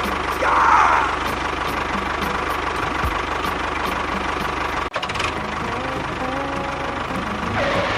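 A small motor running steadily with a fast, even ticking rhythm, broken by a brief dropout about five seconds in.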